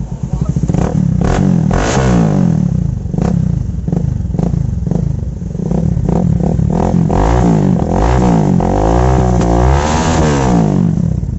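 Bajaj Pulsar 220F's single-cylinder engine running through an aftermarket Akrapovic-style exhaust, loud, blipped repeatedly, with the revs rising and falling several times in the second half.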